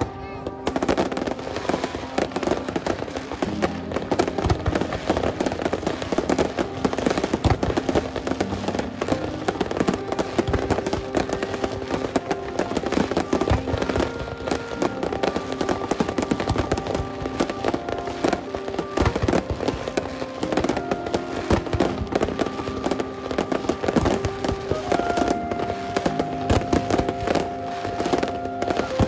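A fireworks display: a dense, continuous string of bangs and crackles as many shells burst at once, with music playing along underneath.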